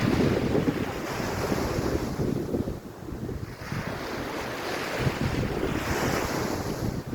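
Wind buffeting the microphone over waves washing on a beach, the noise swelling and easing every couple of seconds.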